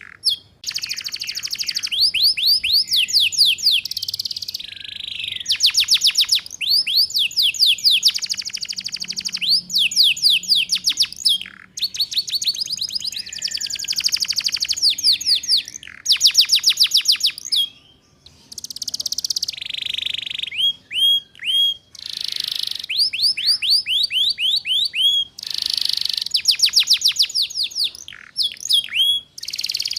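Domestic canary singing long, fast trilled phrases of rapidly repeated high, downward-sweeping notes, broken by short pauses: the 'ngeriwik' trilling song used as a master recording for young canaries to learn from.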